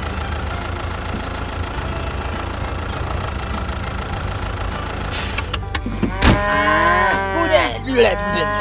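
Tractor engine running steadily, then a short hiss about five seconds in and a knock, followed by cows mooing several times over the engine near the end.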